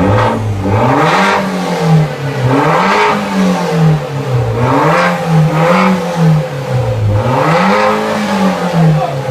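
Car engine revved up and let fall back about four times, heard through a remote-controlled valved exhaust being tested.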